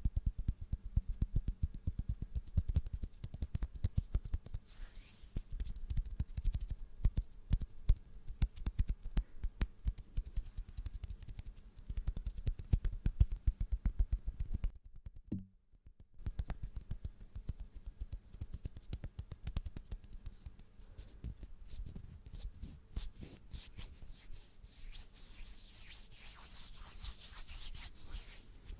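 Close-miked ASMR hand sounds: hands rubbing and scratching, with a dense run of quick crackly clicks. There is a brief pause about halfway through, and the sound turns to a hissier rustling in the last several seconds.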